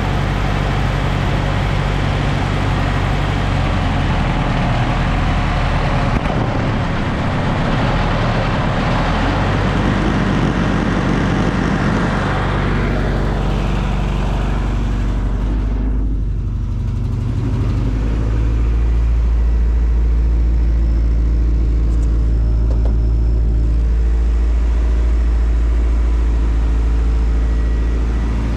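Car engine idling, running without a working idle air control valve, which the owner takes to have gone bad. About halfway through the pitch of the engine shifts and the sound turns deeper and duller, with less hiss, to the end.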